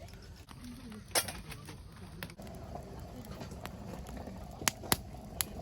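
Firewood crackling as it burns in a campfire, over a steady low rumble, with a sharp pop about a second in and three quick pops near the end.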